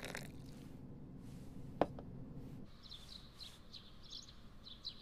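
Faint background ambience: a low hum with a single sharp click about two seconds in, then small birds chirping through the second half.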